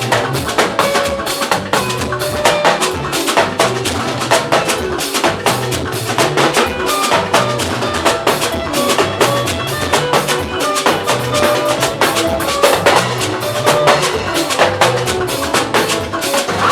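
Gospel band playing an instrumental passage: drum kit and percussion keep a busy, steady beat over a bass line, with no singing.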